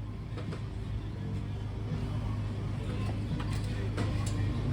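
Car engine idling steadily, a low even hum, with a few faint clicks over it.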